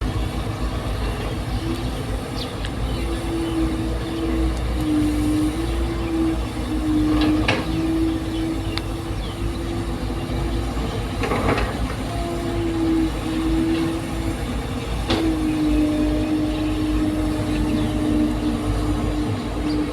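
Heavy diesel machinery running steadily, its engine note shifting slightly up and down, with three sharp metallic clanks spread through.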